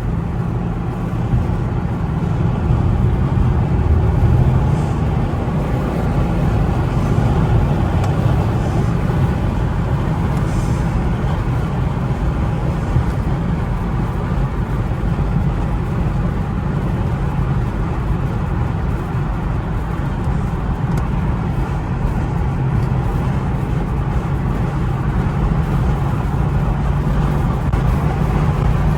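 Steady low road and engine rumble inside the cabin of a moving 2010 Infiniti, with no sharp changes.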